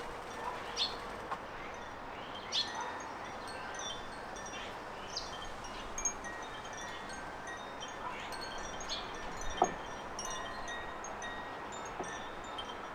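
Garden birds giving short high chirps every second or two over a steady outdoor hiss, with faint lingering high ringing tones underneath. A sharp click about nine and a half seconds in is the loudest sound.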